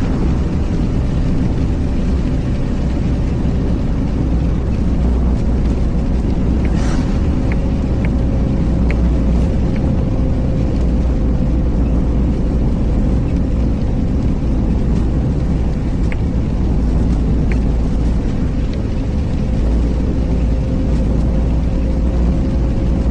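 Car on the move, a steady low rumble with a faint steady hum and a few light ticks scattered through.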